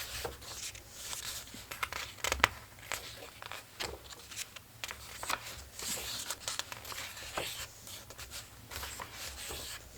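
Paper pages of a collage book being turned and handled: a string of soft rustles and small clicks, one a little louder about two and a half seconds in.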